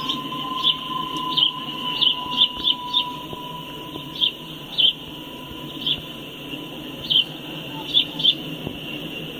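Empty coal hopper cars rolling past with a steady low rumble and a high steady squeal from the wheels. Short, sharp, high chirps come irregularly, one or two a second, and are the loudest sound.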